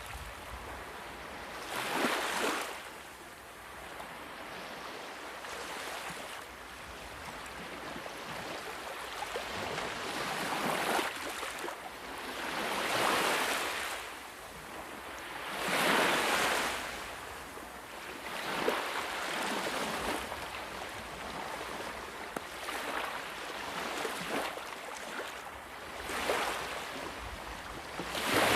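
Ocean waves breaking and washing up on shore, a steady surf hiss that swells with each wave every few seconds.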